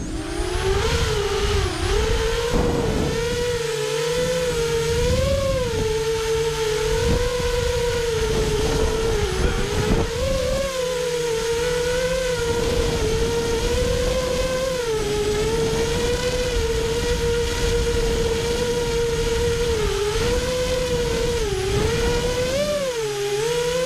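FPV quadcopter's electric motors and propellers whining in flight, the pitch dipping and rising every few seconds with the throttle, over a low rumble of wind noise.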